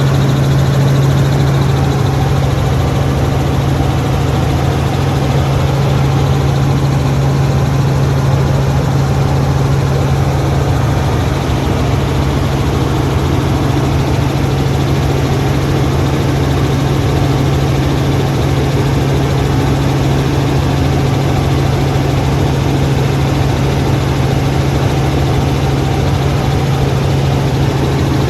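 Helicopter engine and rotor noise during flight: a loud, steady drone with a strong low hum.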